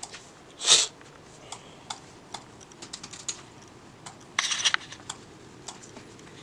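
Clicking of a computer keyboard being typed on at a bank teller's counter, with two short, louder noisy bursts about a second in and about four and a half seconds in.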